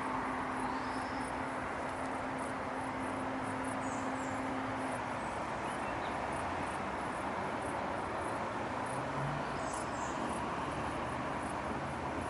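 Steady background hum of distant city traffic, with a low steady drone that stops about five seconds in and a few short, high chirps from birds.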